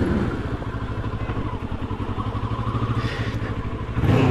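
Motorcycle engine running under way, a steady low pulsing note. The engine sound swells louder near the end.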